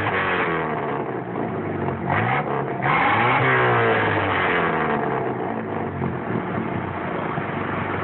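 Chevrolet Opala's 1976 151 four-cylinder engine, with a single-barrel Weber 228 carburettor and straight exhaust, revved: the revs fall, rise twice in quick blips about two and three seconds in, then drop back to a steady idle for the last few seconds.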